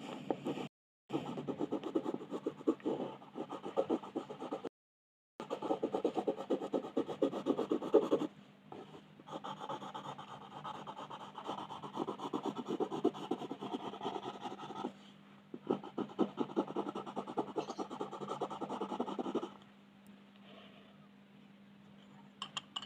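Coloured pencil shading on paper: rapid back-and-forth scratching strokes in several spells with short pauses between them, stopping a few seconds before the end, followed by a couple of light taps.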